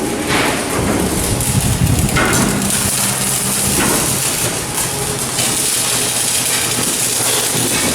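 Shipyard work noise: a steady machine hum with a low drone and a high hiss, with a few metal knocks in the first two seconds.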